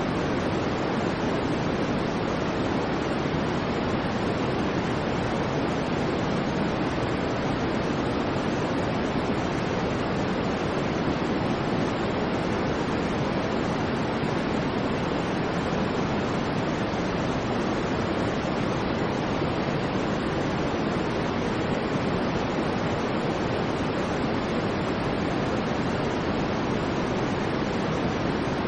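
Steady synthetic noise, even and unchanging, with more weight in the low-mids than the highs, like a soft shushing hiss.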